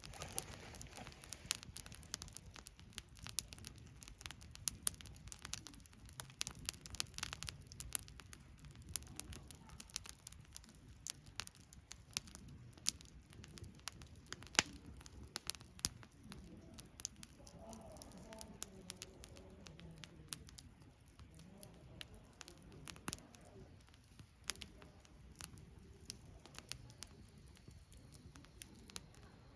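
Wood campfire crackling, with irregular sharp pops and snaps over a soft low rumble of the flames. A faint wavering sound rises and falls through the middle.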